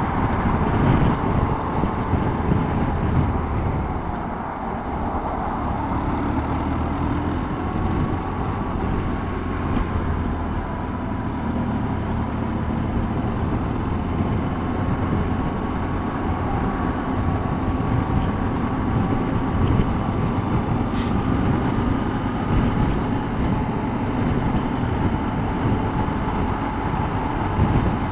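Motorcycle engine running steadily in traffic, with the low rumble of surrounding vehicles and a faint tone whose pitch drifts slowly up and down.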